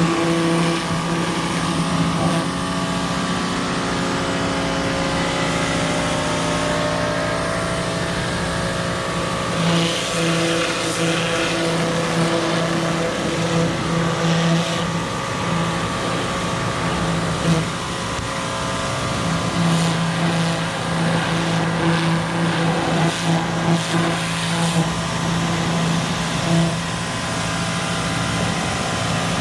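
Electric pressure washer running, its motor humming steadily over the hiss of the spray jet. The hum drops out briefly several times.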